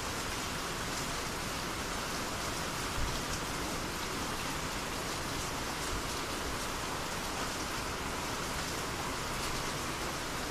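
Steady rainy-season rain falling: an even hiss with scattered ticks of single drops.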